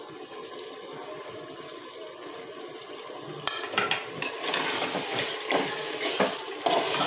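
Korma masala sizzling quietly in an aluminium pressure cooker. About halfway a spoon knocks against the pot and starts stirring, and the frying gets louder, with scrapes and clinks.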